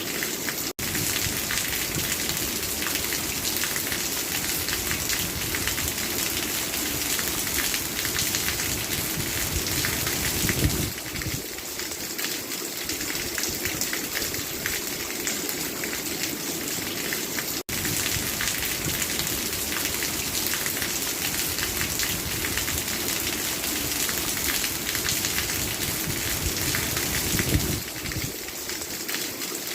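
Steady rain falling, a dense patter of many drops hitting a surface. It cuts out for an instant twice, about a second in and about two-thirds through.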